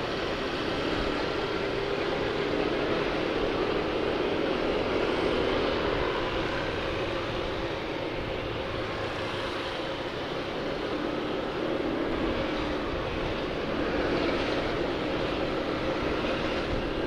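Motorcycle riding along, its engine running steadily under a constant rush of wind noise on the camera's microphone.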